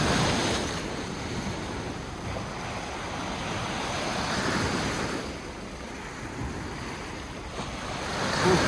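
Sea waves surging and breaking on the shore, with wind buffeting the microphone; the surf swells and falls a few times.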